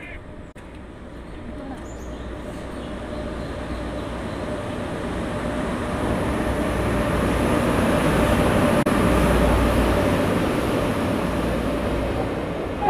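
Indian Railways WAP-7 electric locomotive and its passenger coaches arriving at speed along the platform: a steady rumble of wheels on rails that grows louder over about eight seconds and then holds as the coaches run past, with a faint steady whine beneath it.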